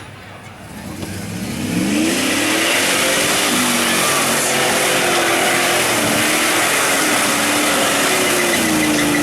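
A tractor-tire mud truck's engine revving hard. The revs climb steeply about a second in, then stay high, dipping and rising again several times over a loud, dense noise.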